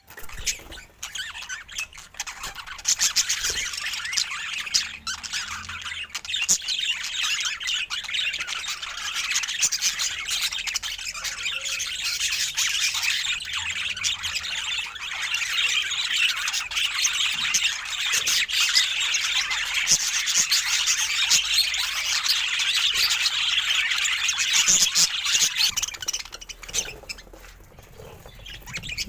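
Budgerigars chattering, a dense, unbroken stream of warbles, chirps and squawks that eases off near the end.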